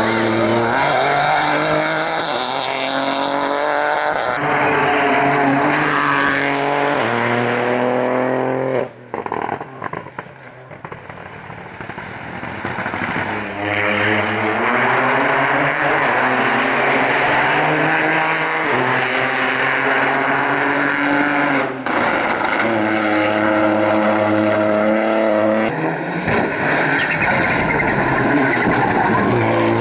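Rally cars at full throttle, engines revving up through the gears: pitch climbs, drops back at each shift, and climbs again. Several separate runs follow one another with abrupt cuts, one about nine seconds in, where the engine is quieter and further off for a few seconds before it builds again.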